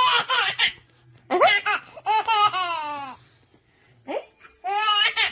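Baby laughing in several high-pitched bouts with short pauses between them.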